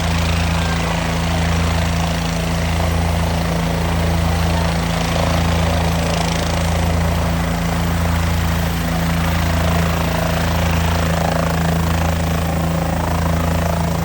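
Helicopter running steadily, with a steady low hum that swells and eases about every second and a quarter.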